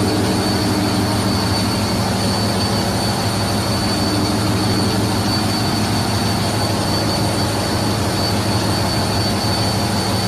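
Turbocharger of a Wärtsilä 34SG lean-burn gas engine running steadily, a constant high-pitched whine over the engine's loud low running noise.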